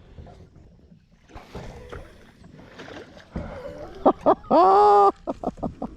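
Light splashing and handling noises around a kayak, then a man's long, loud whoop about four seconds in, followed by a quick run of short laughs.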